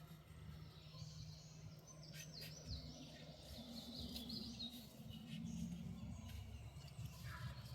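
A songbird singing a series of high chirping notes that step up and down, over a low steady rumble.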